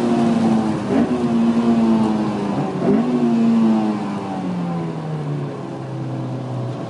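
2002 Honda S2000's 2.0-litre four-cylinder engine heard from inside the cabin, its revs falling as the car slows, with two quick breaks in the note about one and three seconds in before the pitch drops to a lower, steadier note.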